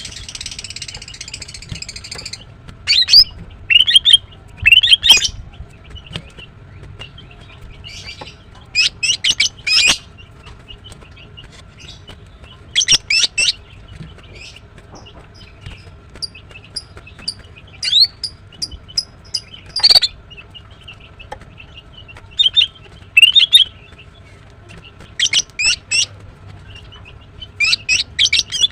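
Female greater green leafbird calling: clusters of sharp, quick chirps that come every few seconds. A rush of hissing noise fills the first two seconds, and a faint steady hum lies underneath throughout.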